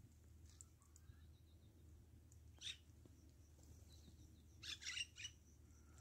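Faint bird chirps in a quiet meadow: one short chirp about two and a half seconds in, then a quick cluster of chirps near the end, over a low steady hum.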